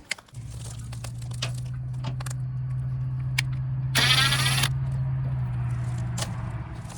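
A small electric motor hums steadily for about six and a half seconds, with scattered metallic clicks and a short burst of bright metallic rattling about four seconds in.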